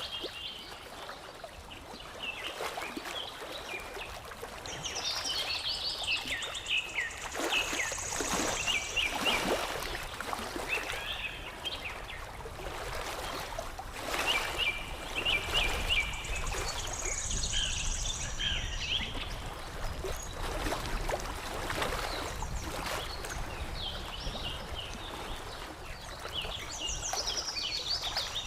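Songbirds singing repeated phrases of quick descending chirps, a phrase roughly every ten seconds, over water lapping and trickling.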